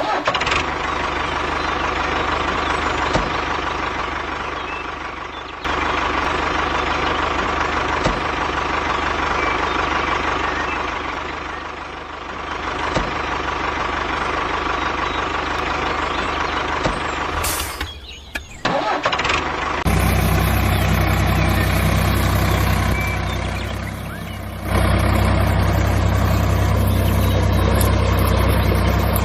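Vehicle engine running in several spliced segments: a lighter whirring engine sound with a steady whine for the first two-thirds, then a deeper, louder engine running from about two-thirds in.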